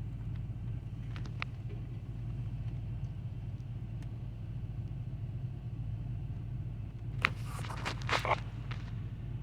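Idling vehicle engine giving a steady low hum, with a few short sharp clicks about a second in and a burst of clattering near the end.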